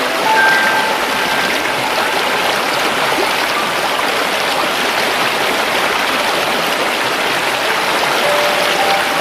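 Steady rushing of flowing water, as from a stream. A few faint short whistle-like notes sound near the start and again near the end.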